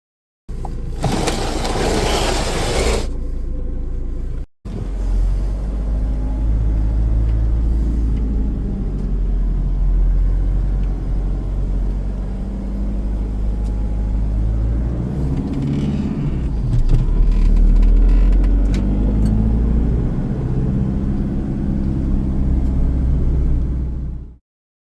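Range Rover L322's 3.0 BMW M57 straight-six turbodiesel running on its failing turbocharger. A loud hissing rush sits over the engine for the first few seconds, and the engine is revved up and back down a couple of times past the middle.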